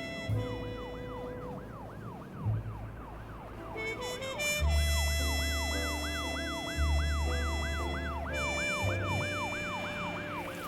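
Emergency vehicle siren in a rapid yelp, rising and falling about three times a second, over a film score of held notes and low bass.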